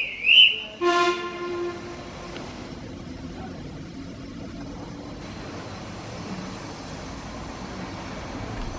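The tail of a guard's high-pitched whistle, then one short blast of the steam locomotive's whistle about a second in: the departure signal and the driver's reply. A steady low rumble of the train follows.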